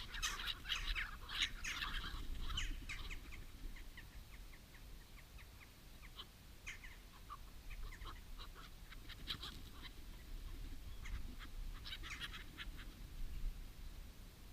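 Birds calling: a dense burst of short calls at first, then scattered calls, with small clusters of calls again about two-thirds of the way in.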